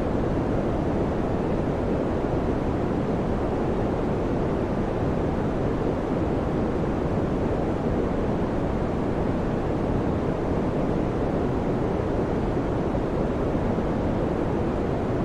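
Electric fan running steadily: an even, low whooshing of moving air with no change in pitch or level.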